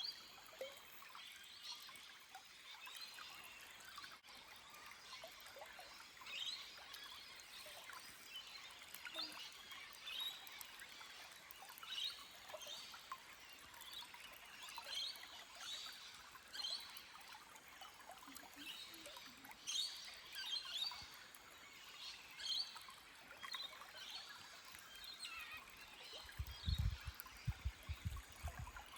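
Forest stream with water trickling over rocks, and small birds chirping again and again over it. Near the end a few low thuds come through, louder than the stream.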